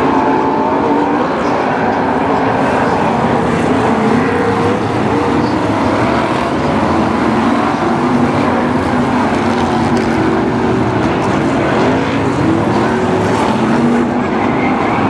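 A pack of BriSCA F1 stock cars' V8 engines running round the track, several engine notes overlapping and wavering up and down in pitch.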